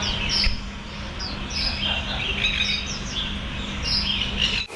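Several small birds chirping: a busy stream of short, high, downward-sliding chirps overlapping one another, over a low rumble. The sound cuts off abruptly near the end.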